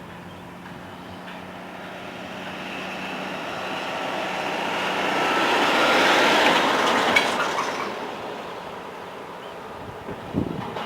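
A train passing: wheel and rail noise swells to its loudest about halfway through and then fades away, with a sharp click just after the peak and a couple of low thumps near the end.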